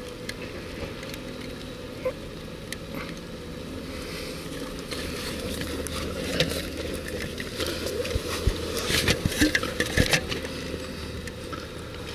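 A large engine idles steadily, with a run of sharp knocks and clattering in the second half, loudest toward the end.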